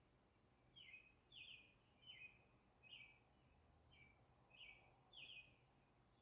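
A songbird calling faintly: a series of seven short, falling notes at a fairly even pace, a little under a second apart.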